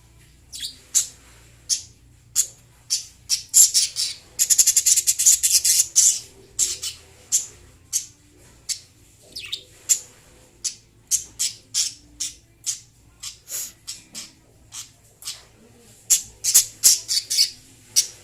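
Lovebirds giving a string of short, shrill chirps and squawks, with a fast, dense run of chatter about four seconds in and another quick cluster near the end.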